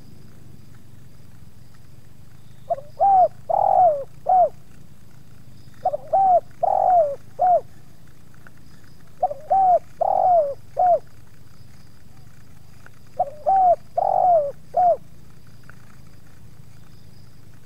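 Spotted dove (tekukur) cooing: four phrases of about four short rising-and-falling coos each, spaced a few seconds apart, over a steady low hum.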